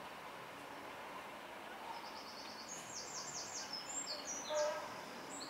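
A songbird singing one phrase of rapid, repeated high notes that starts about two seconds in and ends in a short flourish, over faint steady background noise.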